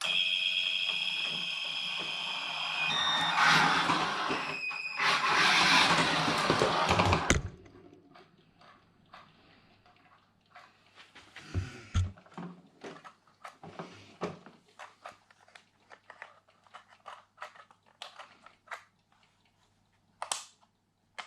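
Hua Peng King Hauler 1:14 RC semi truck's electric drive motor and gearbox whining with a steady high tone that turns rougher and noisier after about three seconds. It cuts out abruptly about seven seconds in, the truck losing power. Faint light clicks and taps follow.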